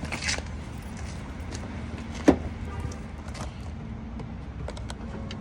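BMW rear power-window motor humming faintly as it tries to run, with a sharp click about two seconds in. The glass does not move: the window regulator's cable is damaged.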